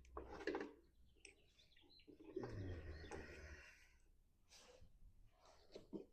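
Faint clicks and rustling from small mower parts being handled, with a longer rustle about two and a half seconds in.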